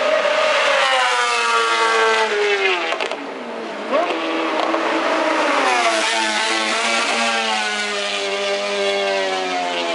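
Racing motorcycle engine at high revs on the track. Its pitch slides down over the first few seconds and dips briefly, then climbs sharply about four seconds in and holds a high, steady note, sliding down once more near the middle.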